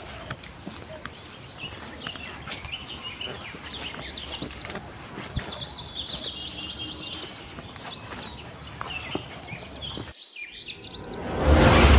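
Many small birds chirping and calling over a steady outdoor background hiss. Near the end the sound drops out briefly, then a loud rushing noise swells up.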